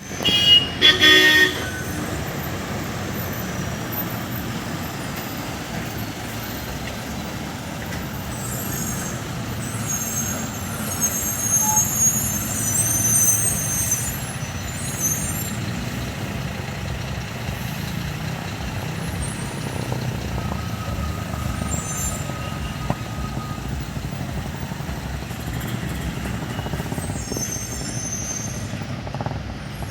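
Heavy lorry engines running slowly under load as they work around a steep hairpin bend, with a loud horn sounding twice in quick succession at the start. High hissing comes in now and then over the steady low rumble.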